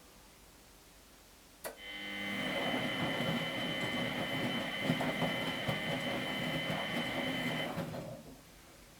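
Miele Professional WS 5426 washing machine: a relay click, then the drum motor turns the drum through one wash stroke for about six seconds, with a steady whine and water churning in the drum, before it coasts to a stop.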